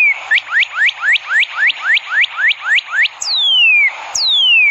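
Northern cardinal singing: a fast run of short rising whistles, about four a second, then two long falling whistles near the end.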